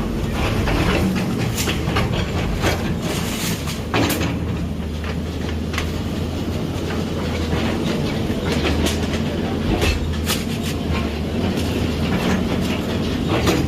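A heavy construction machine's engine running steadily, with irregular clanks and knocks throughout.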